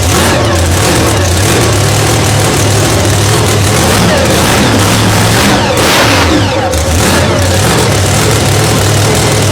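Loud engine running, its revs rising and falling several times.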